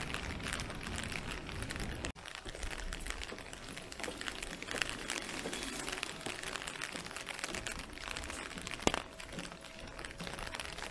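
Rain falling on a wet street, a steady crackly patter of drops. It breaks off briefly about two seconds in, and there is one sharp click about nine seconds in.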